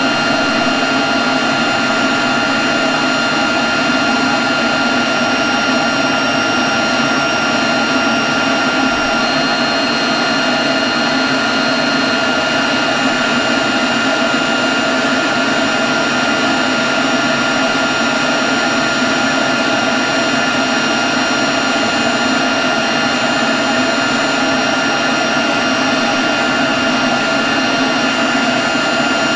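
Leaf blower running steadily at constant speed: a continuous rush of air with a steady high whine.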